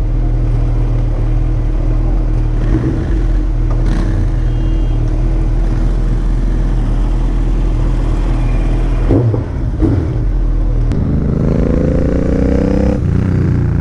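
2021 Suzuki Hayabusa's inline-four engine through an Akrapovič full-system exhaust, running steadily while the bike is ridden. About eleven seconds in, the engine note rises as it revs up, then drops back near the end.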